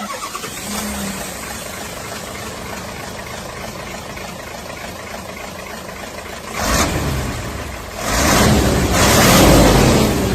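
A model dump truck's engine-like sound running steadily, with a louder surge about six and a half seconds in and a longer, louder one from about eight seconds in.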